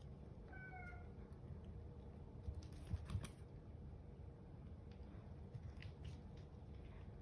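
A domestic cat gives one faint, short meow about half a second in. A few soft taps or clicks follow around three seconds in, over quiet room tone.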